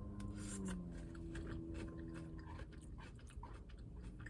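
Close-up chewing of a salad: soft crunches and small wet clicks from the mouth, irregular and quiet.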